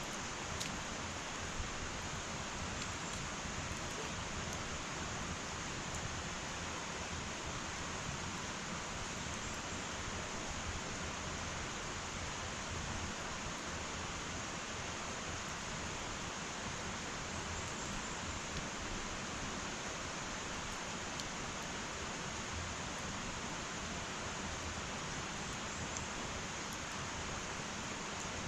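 Wood fire burning in an irori hearth: a steady hiss, with a few sharp crackles near the start and again late on.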